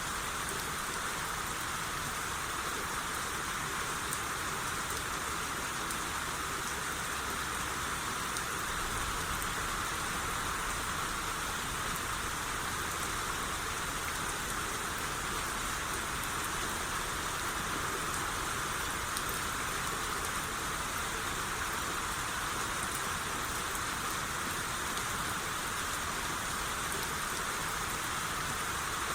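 Steady rain shower falling on surfaces, an even hiss of many small drops with faint individual drop ticks.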